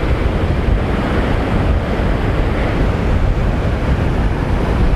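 Strong wind buffeting the microphone with a low, steady rumble, over rough surf breaking on the beach.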